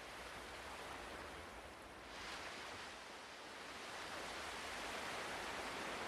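Ocean surf: a steady wash of waves that dips about two seconds in, then swells back up.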